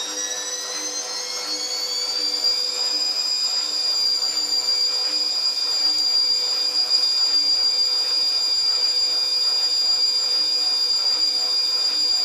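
Fagor washing machine's drum motor whining as it speeds up, its pitch climbing for the first few seconds, then holding a steady high whine at full speed, with a soft regular pulse underneath from the turning drum.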